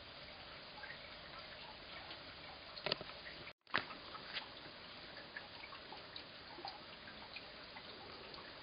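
Heavy rain and wet snow falling, a faint steady hiss full of small scattered drips and ticks. The sound cuts out for a moment about three and a half seconds in, with a sharp click just before and just after.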